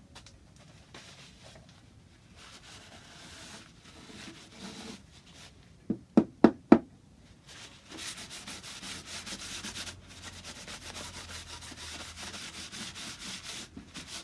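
Wood being rubbed down by hand with quick back-and-forth sanding strokes, about halfway through and to the end, after four sharp knocks on wood in quick succession a little before the halfway point.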